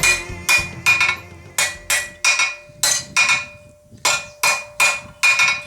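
Blacksmith's hammer striking steel flat bar on an anvil, about a dozen sharp ringing blows at roughly two a second, some in quick pairs, as the latch handle blank is roughed into shape.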